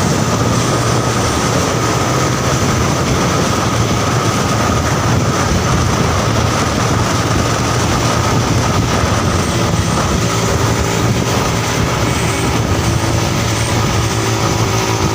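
Heavy truck running steadily: a loud, continuous engine drone with road and wind noise and no change in pitch.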